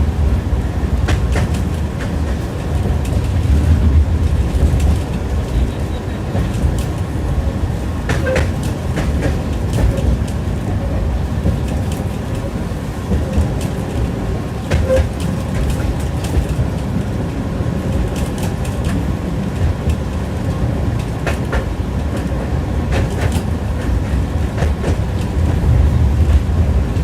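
Tram running along the line, heard from inside the car: a steady low rumble with the wheels clattering over rail joints in irregular sharp clicks, the ringing clatter of tram wheels.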